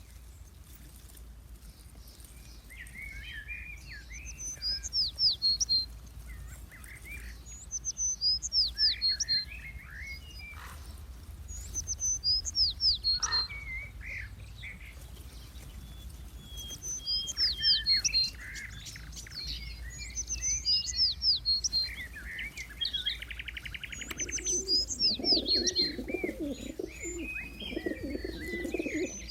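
Songbirds singing outdoors: short phrases of high, quick, falling notes come again about every four seconds, with lower chirps in between. From about 24 seconds in, a dove's low cooing joins them.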